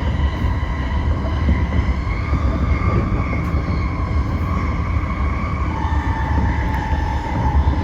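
Toyo Rapid Railway 2000 series electric train running, heard from inside the front car: a steady rumble of wheels on rail under an electric motor whine that climbs slightly and then drops a step in pitch about six seconds in.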